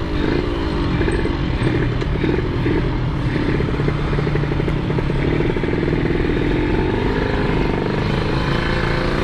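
Yamaha RX-King's 135 cc two-stroke single-cylinder engine running under way at a fairly steady speed, its pitch wavering a little, then rising gradually near the end as the bike picks up speed.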